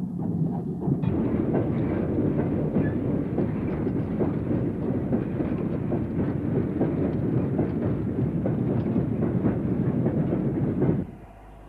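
A steam train running on the rails with a steady, dense clatter. It grows fuller about a second in and cuts off suddenly near the end.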